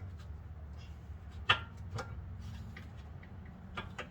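A few light clicks and knocks of a new front brake pad being pressed into its caliper bracket, the sharpest about one and a half seconds in, over a low steady hum.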